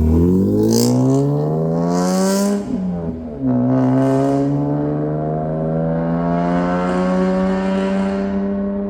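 BMW E46 M3's S54 straight-six running through a Valvetronic Designs valved exhaust under acceleration. The revs dip and then climb, drop sharply with an upshift about three seconds in, then climb steadily through the next gear.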